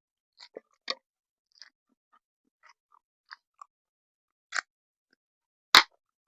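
Close-miked mouth sounds of chewing Buldak carbonara instant noodles: scattered short wet clicks and smacks, with a sharp, louder click near the end.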